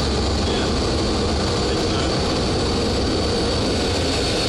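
Boeing 737-800's CFM56-7B jet engines running steadily, a thin high whine over a broad, even rumble.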